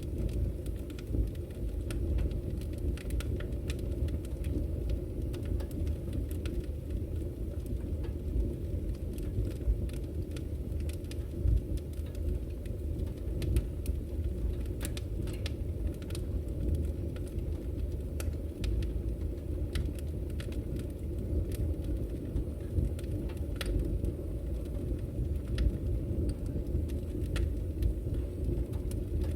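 Wood fire burning in a fireplace, crackling with scattered sharp pops and snaps over a steady low rumble.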